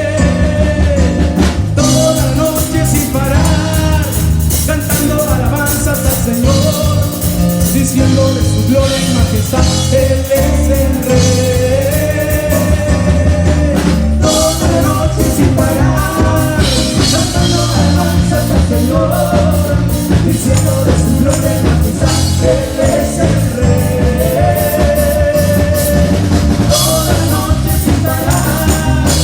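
Live band playing an upbeat rock-style Christian worship song in Spanish: drum kit keeping a steady beat under guitar, with a sung melody line.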